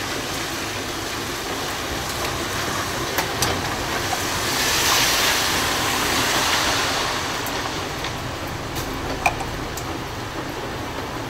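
Steady hiss of falling rain, louder for a couple of seconds around the middle, with a few light clicks as PVC pipe fittings and the cement can are handled.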